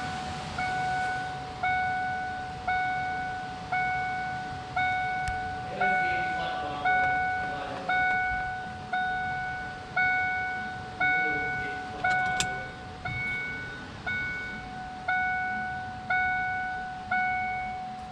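A car's warning chime dinging steadily about once a second, each ding a single bright tone that starts sharply and fades before the next.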